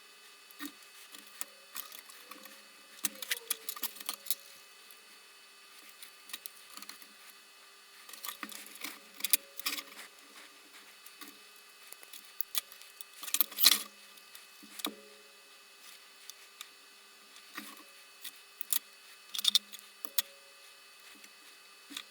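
Scattered clicks, taps and light rattles of small tools, wires and plastic lantern parts being handled on a workbench, in irregular clusters with a louder clatter about nine and thirteen seconds in, over a faint steady hum.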